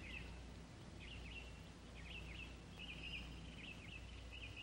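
Faint birdsong: short repeated chirps with a brief trill about three seconds in, over a low steady hum.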